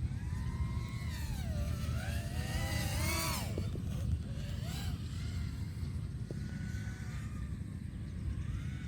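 FPV quadcopter's brushless motors and propellers whining, the pitch sweeping up and down as the throttle changes, loudest in the first few seconds and fainter after. A low wind rumble runs underneath.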